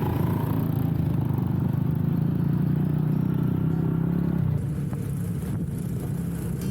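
Motorcycle engine running steadily while riding. About four and a half seconds in, the sound drops abruptly and goes quieter.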